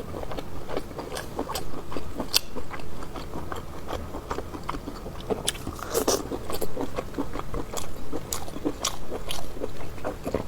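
A person chewing and biting braised pork-intestine circle sausage up close, with many short irregular mouth clicks.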